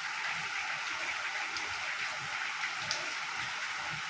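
Rain falling steadily: an even hiss, with a couple of sharper drop ticks.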